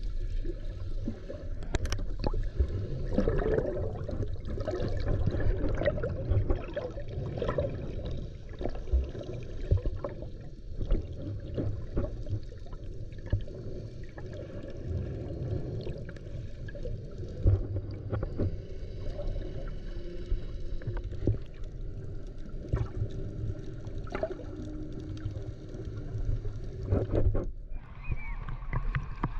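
Muffled underwater sound picked up by a camera submerged while snorkeling: a dull, steady wash of moving water and bubbling, with scattered small clicks and knocks.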